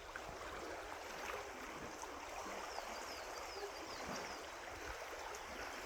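Steady rush of flowing water, with a small bird giving a quick run of short falling chirps about three seconds in.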